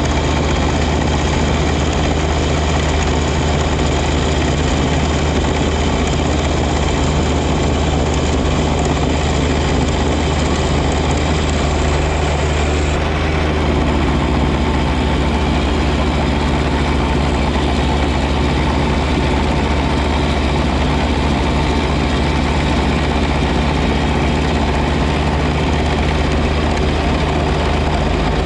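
John Deere 1025R compact tractor's three-cylinder diesel engine running steadily, with its 54-inch snow blower attached.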